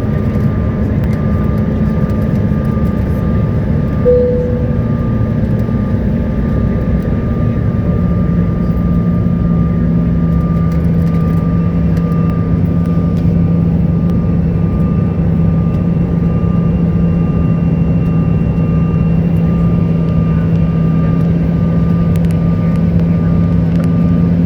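Cabin noise inside a CRJ900 regional jet on approach: a steady, loud rumble of airflow and its rear-mounted GE CF34 turbofans, with a steady whine over it. A brief tone sounds about four seconds in, and the engine note shifts a little lower about eight seconds in.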